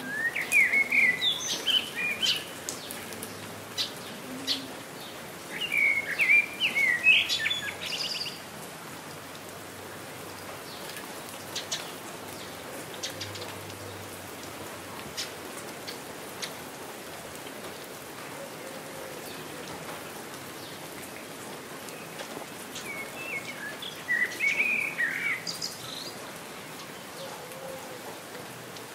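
Steady rain falling with scattered drips, and a songbird singing three short bursts of quick chirping notes: at the start, around six seconds in, and near the end.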